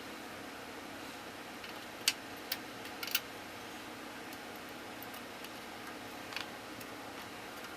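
A few light clicks and taps from small hardware being handled on a workbench, over a steady low hum.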